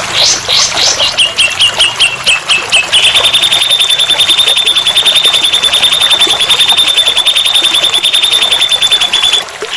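Recorded songbird tutor song (masteran): first a run of short upswept chirps, then from about three seconds in a rapid, steady trill of roughly nine notes a second that cuts off suddenly near the end.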